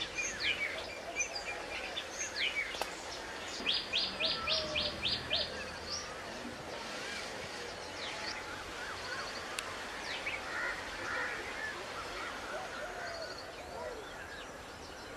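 Assorted small birds chirping and calling, with a quick run of about seven sharp, evenly spaced notes about four seconds in.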